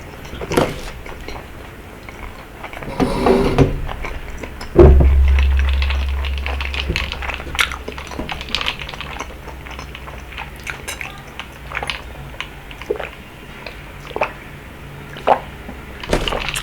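Close-miked eating of rabokki: utensils click and scrape against the bowl, with mouth sounds of eating. About five seconds in there is a heavy low thump, and its rumble fades away slowly.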